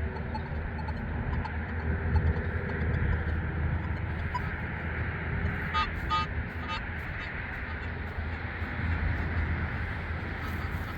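Wind rumbling on the microphone, with a few short electronic chirps from a Nokta Legend metal detector about halfway through. The detector is giving chirpy false signals, which the detectorist hopes a fresh ground balance will cure.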